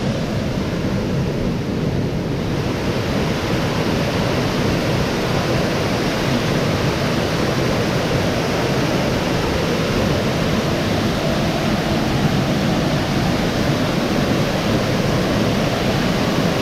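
Ganoga Falls, a large waterfall: a steady, loud rush of falling water.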